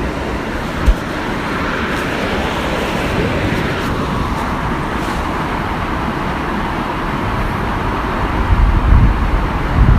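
Waterfall running with a steady, even rush of falling water. A short thump comes about a second in, and low rumbling gusts of wind on the microphone build near the end.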